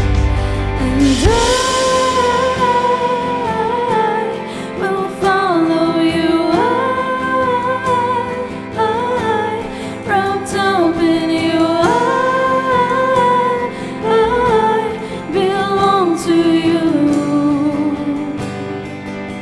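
A worship song sung by a singer over band accompaniment, the melody moving in long held phrases.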